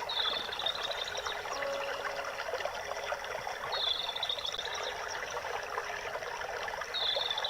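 Running water trickling steadily, with a short high bird call repeated three times, about every three and a half seconds.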